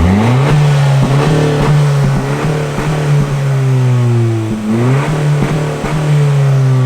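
The 2018 Honda Civic Si's turbocharged four-cylinder engine, on its quiet factory exhaust, is revved and held at a steady high rpm. The speaker calls this "two-step action". About four and a half seconds in the revs drop briefly and climb back up, then hold again and ease off slightly near the end.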